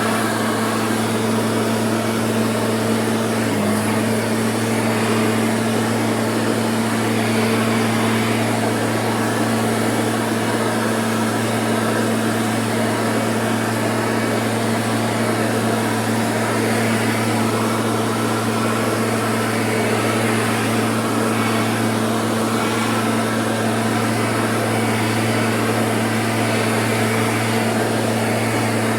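A motor running at one steady speed with a constant hum and hiss.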